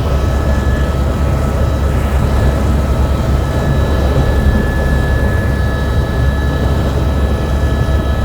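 Helicopter engine and rotor noise heard by a passenger on board: a loud, steady low rumble with a few steady high whines over it.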